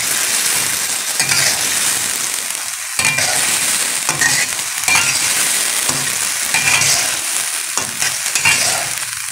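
Liver pieces and sliced tomatoes sizzling in hot oil in a karahi, while a spatula stirs and scrapes across the pan in repeated strokes, about one or two a second.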